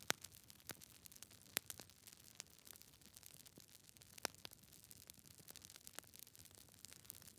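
Wood fire crackling in a fireplace: irregular small ticks and pops, with a few sharper snaps, over a faint hiss.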